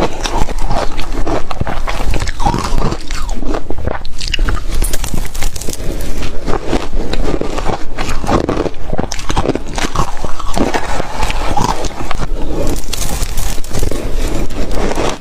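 Ice being bitten and chewed: a dense, irregular run of crunchy cracks and crunches from the ice breaking between the teeth.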